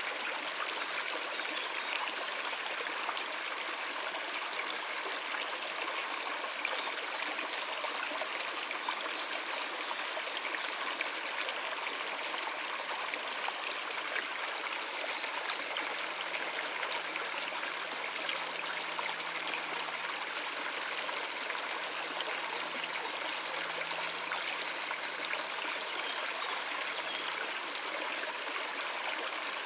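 Stream of water running over rocks, a steady, even rush and trickle. A few faint, high bird chirps come about a quarter of the way in.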